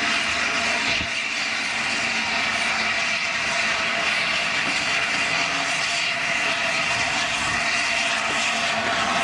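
Peppercorn A1 Pacific steam locomotive letting off steam: a steady, even roar with a constant tone in it and no exhaust beats.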